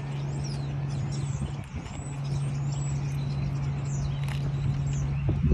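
Steady low mechanical hum, with birds chirping over it.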